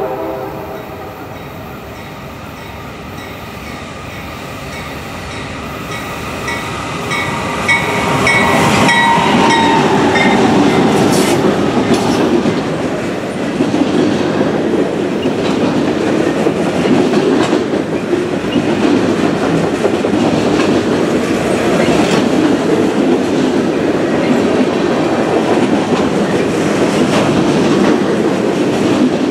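A diesel freight train passing close by: the locomotive grows louder as it approaches and drops in pitch as it goes past about 9 seconds in, followed by the steady rumble and clickety-clack of freight cars rolling by.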